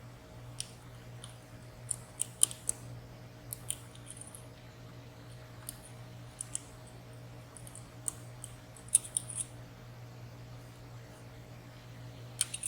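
Irregular small metallic clicks and ticks of a lock pick working the pins of a WSW W10 high-security padlock under tension.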